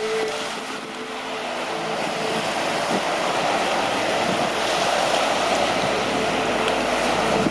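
Wind and rushing sea water, swelling from about two seconds in, over a steady low hum from the ferry's engines.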